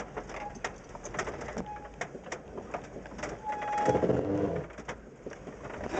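Birds calling outdoors, with short repeated notes and a louder call about four seconds in, over scattered faint clicks.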